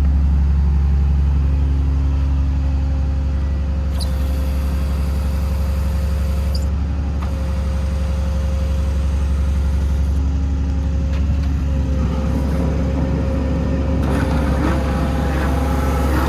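Kenworth T370 service truck's Paccar PX-6 diesel running steadily to drive the PTO hydraulic crane, which is moving at full speed, a steady drone with a faint steady whine. A couple of short clicks come about four and seven seconds in.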